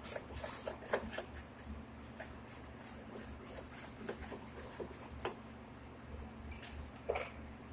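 Irregular light clicks and scrapes over a steady low hum, with one louder hissing scrape about six and a half seconds in.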